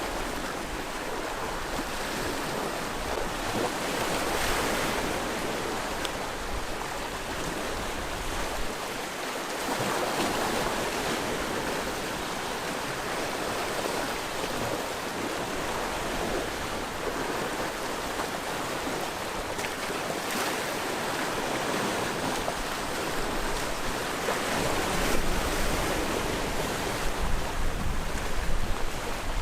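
Sea waves breaking and washing on the shore, surging every five or six seconds over a steady wash of surf. Near the end, wind buffets the microphone with a low rumble.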